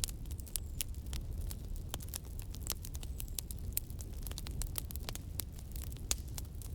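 Fire crackling: a dense run of sharp pops and snaps, several a second, over a steady low rumble.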